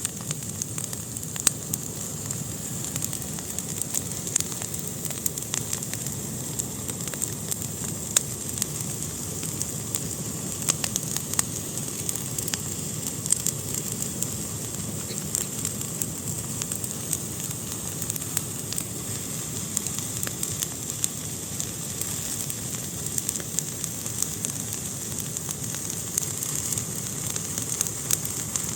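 Fire burning in a fireplace, crackling steadily with frequent small sharp pops over a soft hiss.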